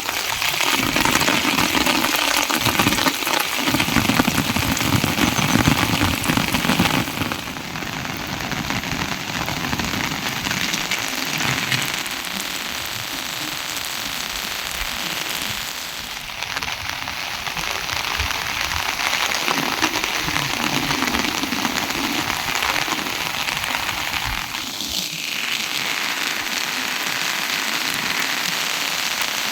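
Steady rain falling on a surface, a dense hiss of many small drop hits, a little heavier in the first several seconds.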